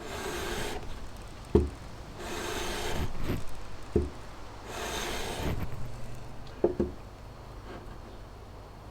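A carburetor's warped mounting base dragged across sandpaper on a flat surface in three rasping strokes, lapping the base flat. Between the strokes come sharp knocks as the metal carburetor is set down on the flat surface.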